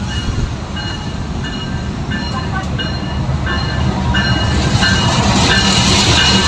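Diesel locomotive hauling a passenger train into the station, its engine and wheel rumble growing louder as it draws alongside. A short high tone repeats about twice a second over the rumble.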